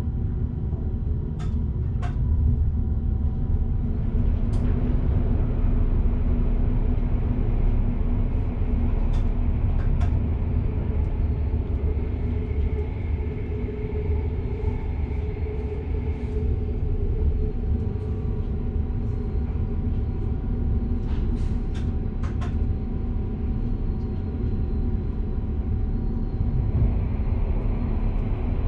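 Electric passenger train running along the track, heard from the driver's cab: a steady low rumble with a faint whine and scattered sharp clicks.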